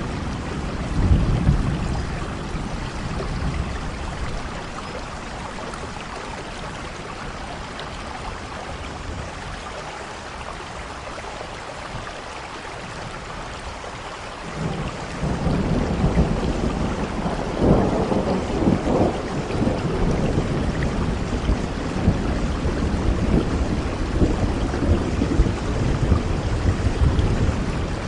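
Heavy rain falling steadily with thunder: a rumble about a second in, then a long, loud rolling thunder building from about halfway and peaking a few seconds later.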